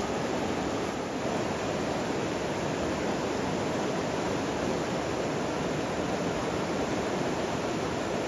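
Steady, even rush of water, with no breaks or changes.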